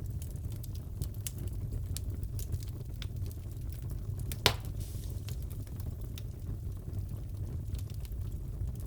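Fireplace fire crackling: scattered small crackles and snaps over a low steady rumble, with one sharp, loud pop about four and a half seconds in.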